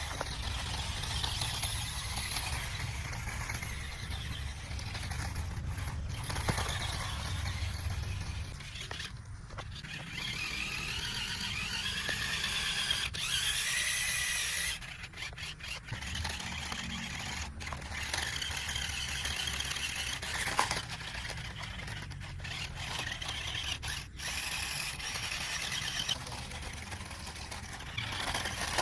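Toy RC car's small electric motor and plastic gearbox whining, the pitch rising and falling as it speeds up and slows, with a few brief stops.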